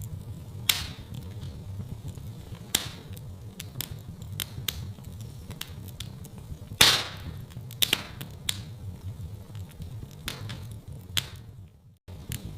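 Wood fire crackling in a fireplace: irregular sharp pops and snaps, the loudest about seven seconds in, over a low steady rumble. The sound drops away briefly near the end and then comes back.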